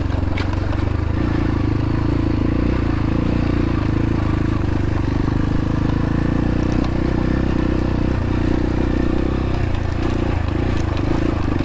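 X-Pro Templar X 250 dirt bike engine running at a steady, even pitch while riding along a trail.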